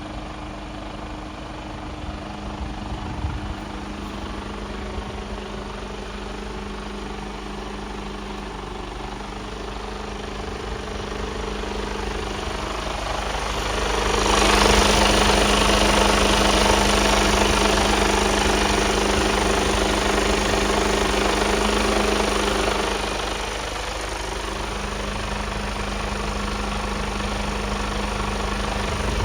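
Mercedes-Benz Actros 1842 truck's diesel engine idling with a steady hum. About halfway through it grows louder and rougher for some eight seconds, then settles back to the quieter idle.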